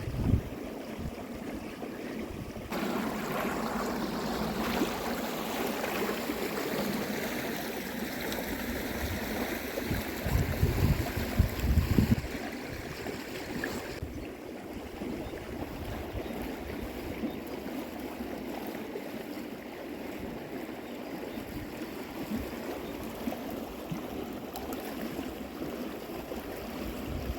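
River water flowing, a steady rushing noise that is louder for several seconds in the first half, with low rumbling bumps of wind on the microphone around ten to twelve seconds in.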